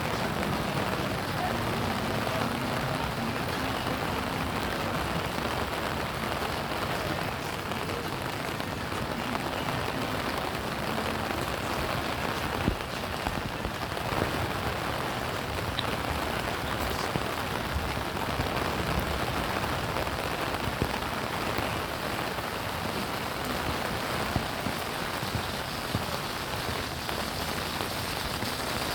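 Steady rain falling, an even hiss of drops with a few sharper ticks standing out now and then.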